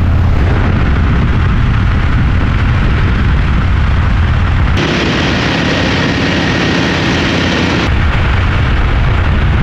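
Motorcycle riding at road speed: steady engine drone and heavy wind rush. The sound shifts abruptly twice, about five and eight seconds in.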